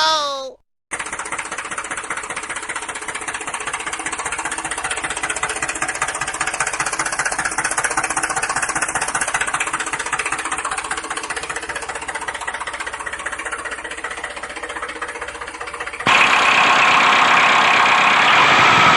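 Small motor of a homemade mini tractor running steadily with a fast, even ripple. About sixteen seconds in, the sound cuts abruptly to a louder, harsher running noise.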